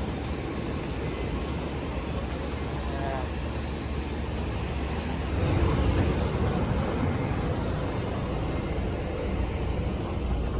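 Steady low rumble and hiss from inside a moving vehicle, swelling briefly about halfway through.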